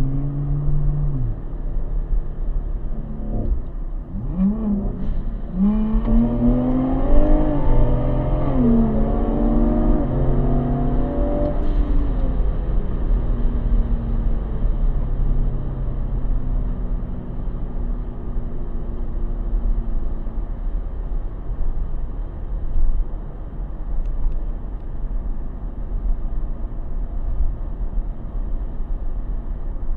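Turbocharged Ford Explorer ST engine heard from inside the cabin at wide-open throttle, its pitch climbing and dropping back through several upshifts. After about a dozen seconds it lifts off and settles into steadier, lower running as the SUV slows from about 87 mph.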